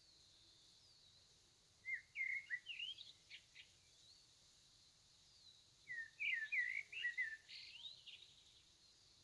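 A small songbird singing two short bursts of quick chirping notes, the first about two seconds in and the second about six seconds in.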